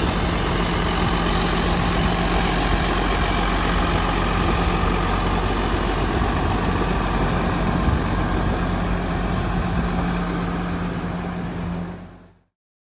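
Diesel engine of a 1997 Case IH 9330 articulated four-wheel-drive tractor idling steadily, then fading out near the end.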